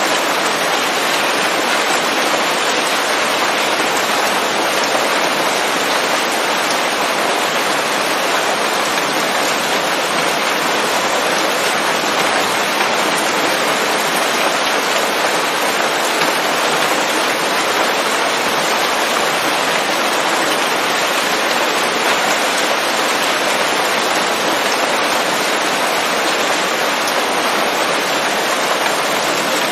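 Steady, heavy rain falling on forest leaves: an even, unbroken hiss without thunder.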